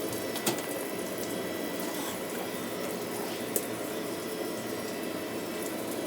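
Steady rush of running water, with two light clicks, one about half a second in and one past the three-second mark.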